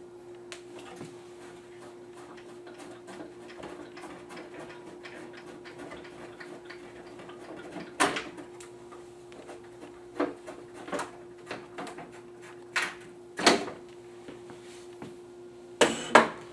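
Clicks and knocks from a General Aire 1042 humidifier's housing being handled and opened to get at the evaporator pad: a few scattered ones, then louder ones about two-thirds of the way through and a quick double knock near the end, over a steady low hum.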